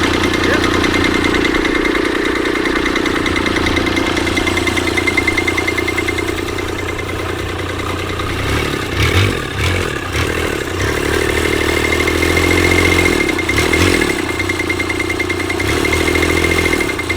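Large antique stationary engine running with a steady, rapid, even beat. A deeper, uneven rumble comes and goes from about halfway through.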